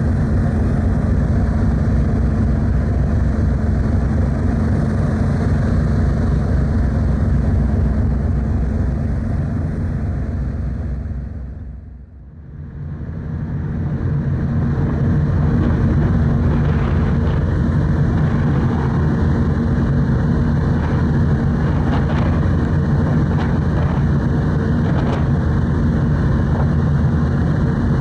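Steady low drone of a car ferry's engines, heard aboard, with rushing wind and water noise over it. The sound fades down smoothly about twelve seconds in and comes back up to the same steady drone.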